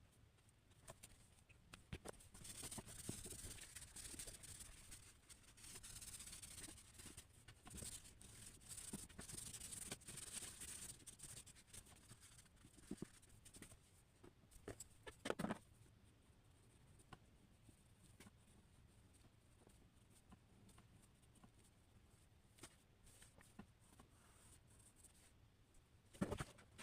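Faint scratching of a drawing tool stroking across paper, in stretches of several seconds, with scattered light taps, a louder knock about halfway through and another near the end.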